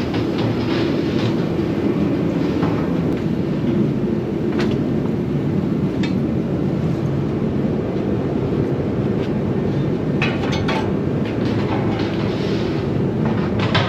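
Steady, loud mechanical rumble with scattered sharp knocks and clicks, most of them clustered about ten seconds in.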